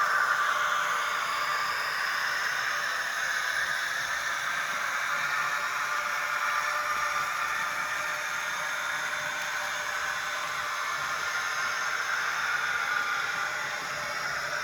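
Model train running: a steady whir and hiss from its small motor and wheels on the track.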